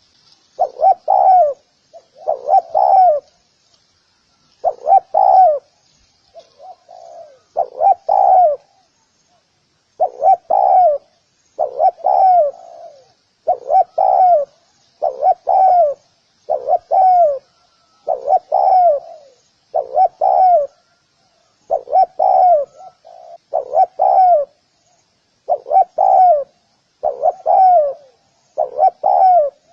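Spotted dove cooing: low, hollow notes repeated about every one to two seconds. A faint high twittering of other small birds runs beneath the calls.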